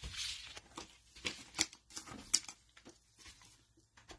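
Trading cards being handled by hand: a soft rustle near the start, then scattered light clicks and taps as cards are flipped and set down.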